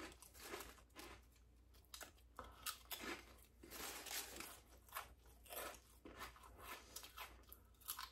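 A person chewing food close to the microphone: faint, irregular crunches and mouth clicks.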